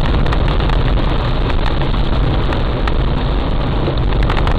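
Heavy rain pouring steadily: a dense, even hiss flecked with many small drop hits.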